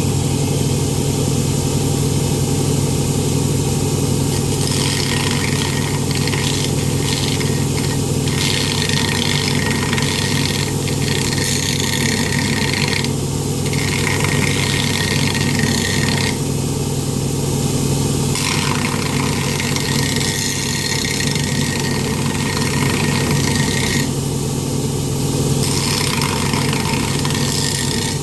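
Power grinder running steadily on an aluminum boat propeller, a constant motor hum under a harsh grinding noise that stops and resumes several times as the tool is lifted off and pressed back onto the metal.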